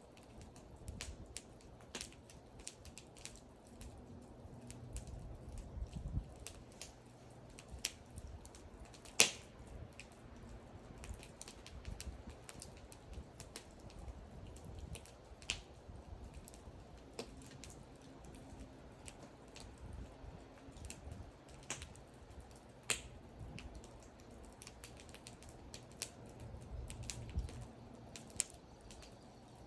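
Wood fire crackling: irregular sharp pops and snaps from burning wood, with a loud pop about nine seconds in, over the low rumble of the flames.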